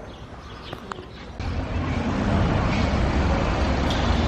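Quiet street ambience that cuts abruptly, about a second and a half in, to a louder, steady low rumble of road traffic.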